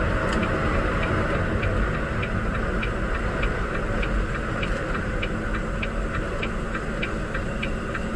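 Turn signal clicking about twice a second inside a semi-truck's cab, over the steady running noise of the truck's engine and tyres on the highway.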